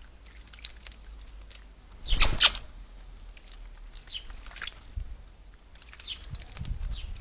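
Small aviary birds giving short, scattered high chirps, with a louder flurry of sharp sounds about two seconds in.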